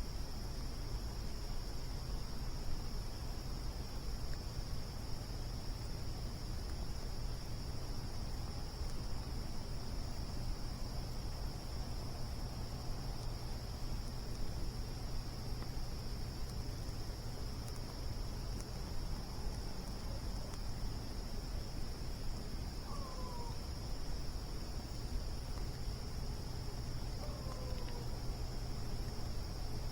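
Crickets trilling in a steady, continuous high chorus over a campfire burning with a low, even hiss. Twice near the end, a short falling call sounds.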